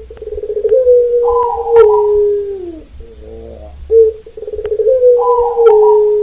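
Perkutut (zebra dove) cooing, two song phrases. Each phrase is a short opening note, a quick stutter of notes, then a long drawn-out coo that drops in pitch at its end.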